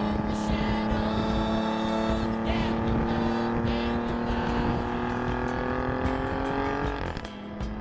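Alfa Romeo Giulia Quadrifoglio's twin-turbo V6 through an Akrapovič exhaust, pulling hard in one gear with a steady note that climbs slowly. About seven seconds in it lets off, the note drops, and a few crackles come from the exhaust.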